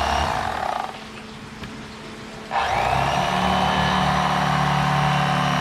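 Electric fillet knife motor buzzing steadily as it cuts fish, switched off a little under a second in and started again about two and a half seconds in.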